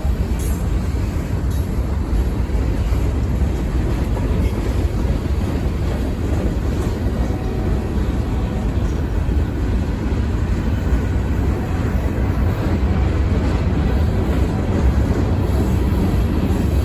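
Freight train cars rolling past on the rails, a steady low rumble with no breaks.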